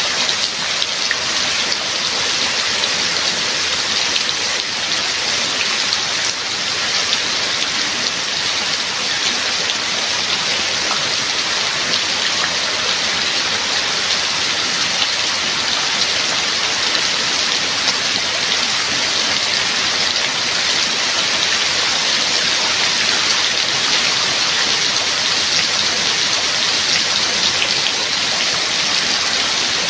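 Steady heavy rain falling, an even hiss with the patter of drops on surfaces.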